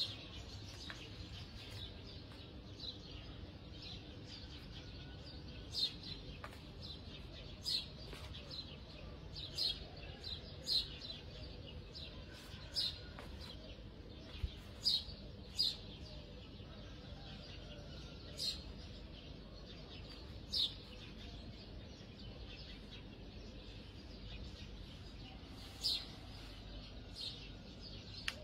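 A small bird chirping: short, sharp single chirps at irregular intervals of one to a few seconds.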